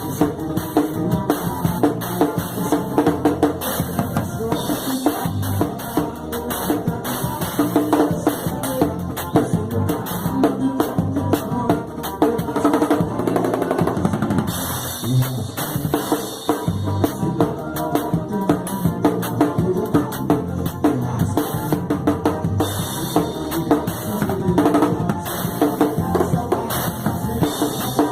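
Live band music driven by a drum kit, with bass drum and snare keeping a steady beat and no singing.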